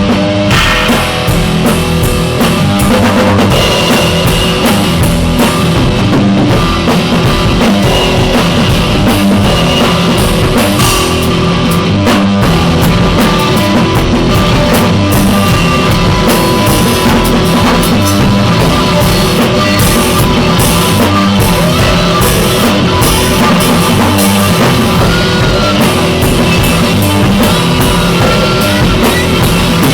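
Loud rock music with drum kit and distorted guitar, a steady driving beat throughout.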